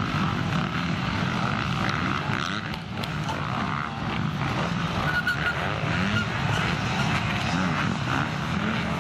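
Several motocross bikes racing, their engines revving up and down over one another.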